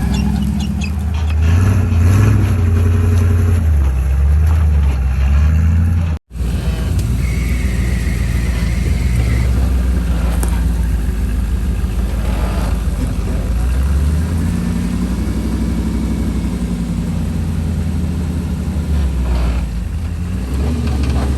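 Rock-crawling truck's engine running and revving in repeated surges as it crawls over rocks, with a brief dropout about six seconds in.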